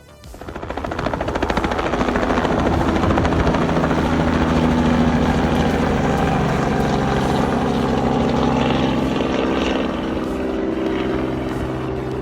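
Robinson R44 Clipper II helicopter taking off: rotor beat and piston engine hum. It swells in over the first second or two, holds steady and loud, then eases slightly near the end.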